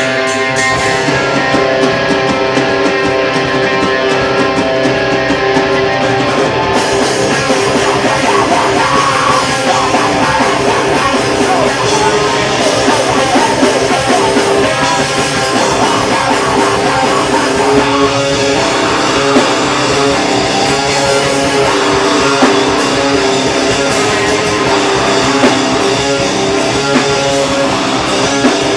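Heavy rock band playing live and loud, with distorted electric guitars. Guitar carries the opening alone, then drums and cymbals come in with the full band about seven seconds in.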